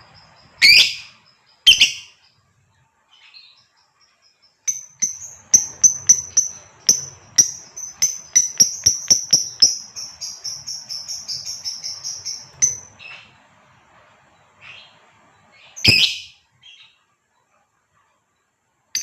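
Female lovebird calling: two sharp shrill calls, then a long run of rapid high chattering notes lasting about eight seconds, then another sharp call near the end.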